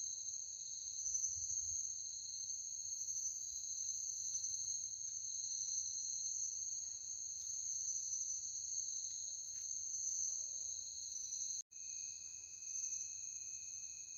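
Steady chorus of night insects, a continuous high-pitched trilling in a couple of steady tones; it drops out for an instant near the end.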